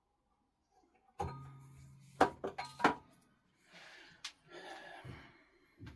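Plastic parts of a cordless orbital sander and its dust extraction attachment being handled and fitted: a knock with a short low hum after it, several sharp clicks, and some rustling. No motor is running.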